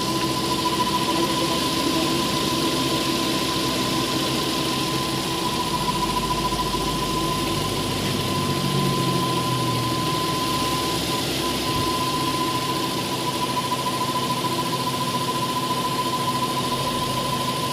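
Car engine idling steadily with the air conditioning being tried; the idle-up that should hold the revs with the aircon on is not working, on an engine the owner says idles too high. A steady high whine runs alongside the engine.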